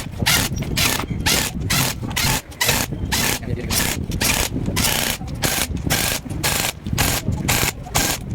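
Hand tool worked in quick, even back-and-forth strokes on truck differential parts, a rasping scrape about three times a second.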